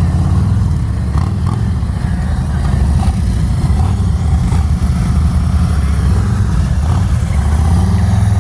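Police motorcycle engines running steadily at low revs, a deep, even rumble.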